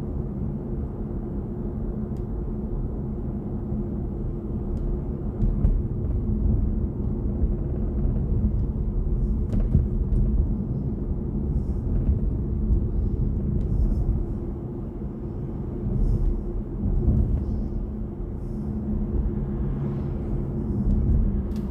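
Road and tyre rumble heard inside a moving BMW i4 M50 electric car, steady and low, with a faint steady hum running underneath.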